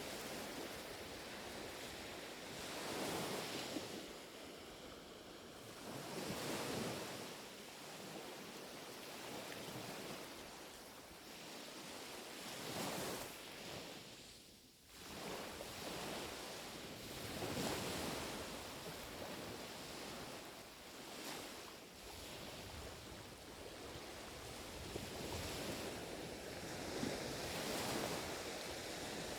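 Small, gentle waves lapping on a shore, each one swelling and washing back every few seconds. A light hiss of wind runs underneath, with a short lull about halfway through.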